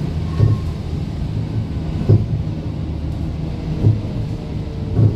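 Scania K230UB bus's diesel engine running steadily with a low drone, broken by four short low thumps spaced about one and a half to two seconds apart.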